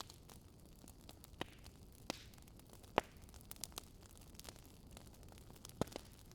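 Wood fire crackling faintly: irregular pops and snaps over a low hiss, with a sharper pop about three seconds in and another near the end.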